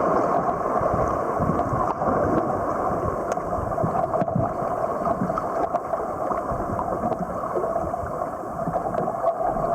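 River water rushing through rapids, a steady churning with small scattered splashes and knocks.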